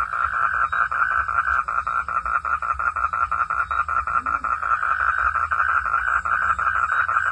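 Frogs calling at night in a steady, fast pulsing chorus, about seven pulses a second, that does not let up.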